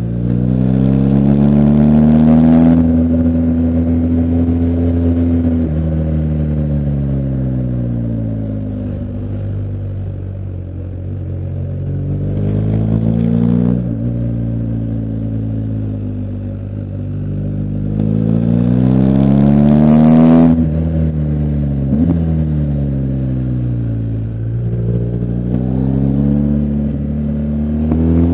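BMW R1250GS Adventure's boxer twin engine revving up and easing off again and again. Its pitch climbs over the first few seconds, holds, then falls; it rises again around the middle, drops sharply about two-thirds of the way through, and climbs once more near the end.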